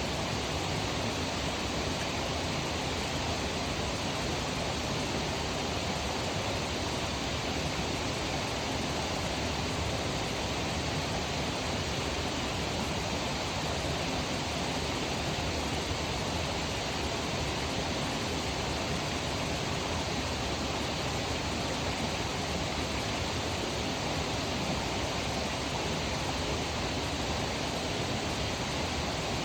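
Steady, even rushing noise with no breaks or changes, of the kind made by flowing water.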